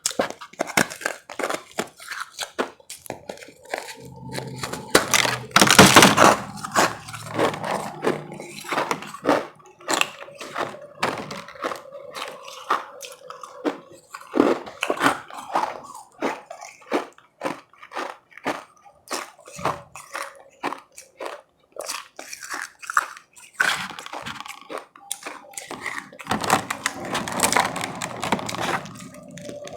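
Powdery ice being bitten and chewed close to the microphone: a dense run of crunches, louder in two stretches.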